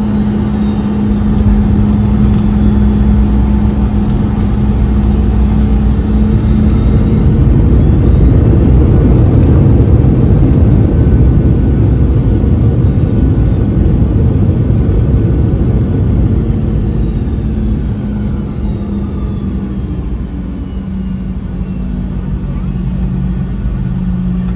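The Boeing 717's rear-mounted Rolls-Royce BR715 jet engines heard from inside the cabin. About seven seconds in they spool up, with a rising whine over a loud, heavy rumble. From about sixteen seconds they wind back down, the whine falling away.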